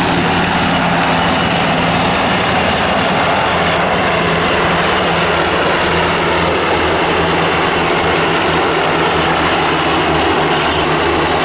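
Sikorsky UH-60 Black Hawk helicopters flying, a steady rotor and turbine drone with a low hum.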